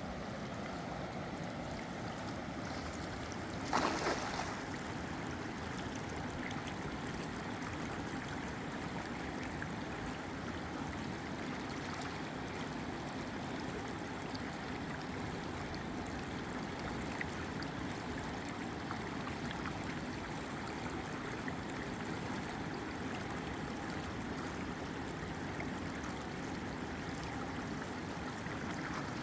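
Steady rush of flowing river water, with one short, louder burst of noise about four seconds in.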